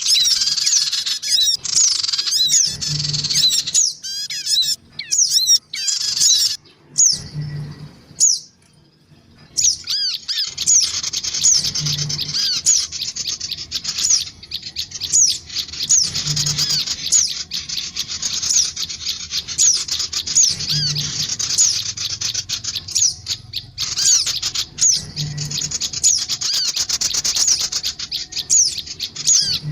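Bird-lure recording of sogon, males, females and young, chattering together: dense, rapid high chirps and trills from several birds at once. The calling breaks off for about two seconds roughly a third of the way in, then resumes just as busily.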